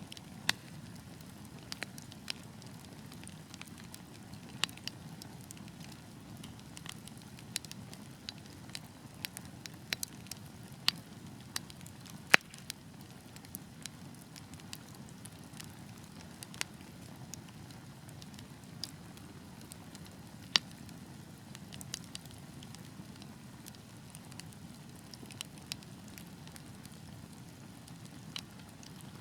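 Burning logs crackling: irregular sharp pops over a steady low rush of flames, with one louder pop near the middle.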